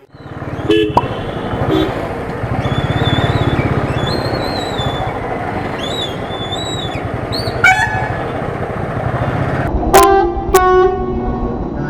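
Royal Enfield Thunderbird's single-cylinder engine running under way in traffic, with road and wind noise. Vehicle horns honk: a short toot near eight seconds and two loud blasts about ten seconds in.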